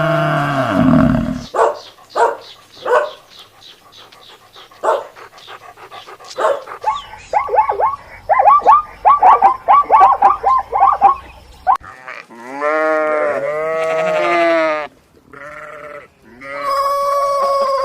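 A string of different animal calls one after another. A long call at the start gives way to scattered short calls, then a fast run of short yelping cries. A long wavering bleat-like call follows, and another call comes near the end.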